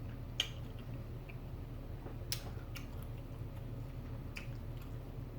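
Close-miked eating sounds: chewing, with a few sharp mouth or utensil clicks, over a steady low hum.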